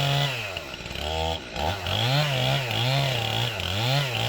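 Two-stroke chainsaw cutting through wood, its engine pitch dipping and recovering over and over as the chain bites and the load changes.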